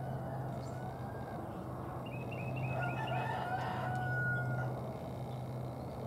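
Birds calling over a steady low background hum: a quick run of short high notes about two seconds in, then a longer call ending on a held note just before the fifth second.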